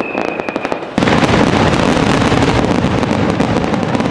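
Aerial fireworks display: a whistle falling slightly in pitch and a quick run of sharp cracks, then about a second in a sudden, dense wall of crackling from many bursting shells.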